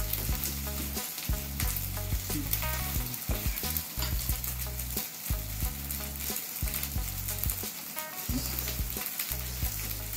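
Close-up eating sounds: chewing and crackly, wet mouth noises while eating rice and grilled chicken yakitori, with small clicks throughout.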